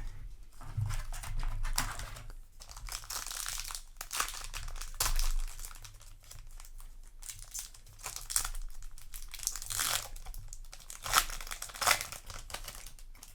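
Foil wrapper of a Yu-Gi-Oh! booster pack crinkling and tearing as it is handled and opened, in irregular rustles with two sharper crackles near the end.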